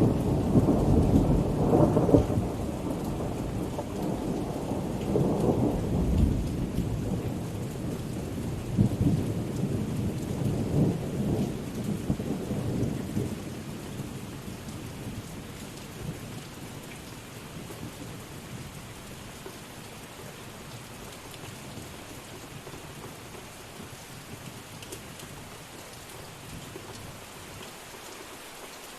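Steady rain with a long roll of thunder that rumbles loudest over the first dozen seconds, then fades away, leaving only the hiss of the rain.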